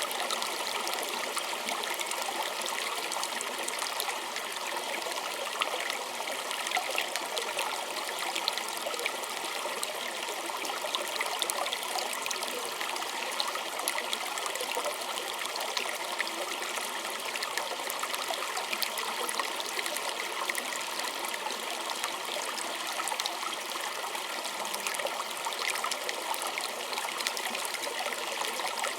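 Small stream trickling and splashing steadily, a dense patter of little droplets and ripples over running water.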